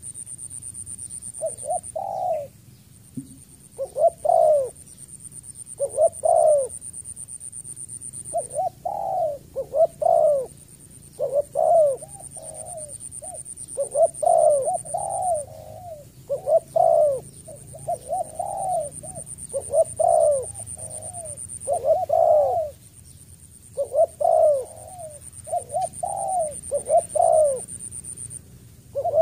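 Spotted dove calling: short coos repeated in groups of two or three, one group after another. A steady high-pitched buzz runs behind, breaking off briefly every few seconds.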